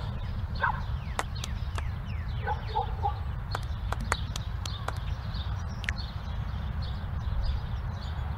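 A few short bird-like calls and scattered sharp clicks over a steady low rumble.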